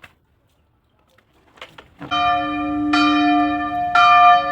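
A bell-like chime, struck three times about a second apart, each strike ringing on before it cuts off suddenly.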